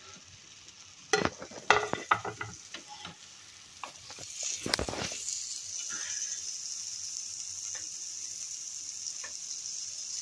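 Potato cutlets sizzling in butter on a flat frying pan over high heat, with a spatula clacking and scraping against the pan a few times early on. The sizzle swells about four seconds in and then runs on steadily.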